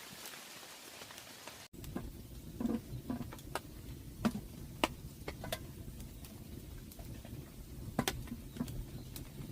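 Steady rain hiss. After a sudden cut about two seconds in, it gives way to a low rumble with irregular sharp taps and ticks scattered through it.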